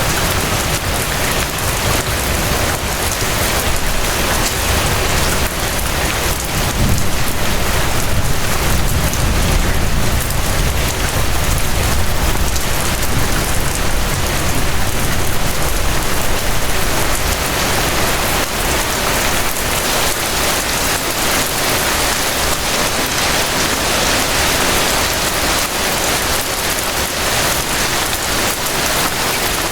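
Steady rain falling, a dense, even hiss of many drops. A deeper low rumble swells under it for about ten seconds in the first half.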